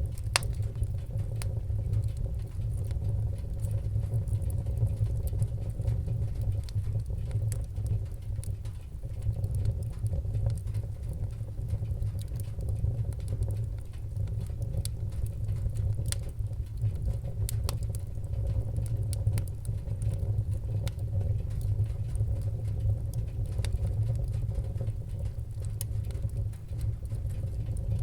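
Wood-burning fire crackling: scattered sharp pops and ticks over a steady low rumble of the burning fire.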